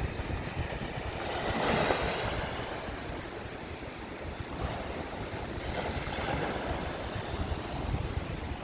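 Lake waves breaking on the shore in strong wind, surging twice: about a second and a half in and again around six seconds. Wind buffets the microphone with a gusty low rumble throughout.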